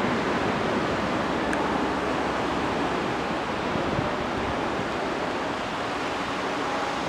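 Steady, even rush of ocean surf mixed with wind.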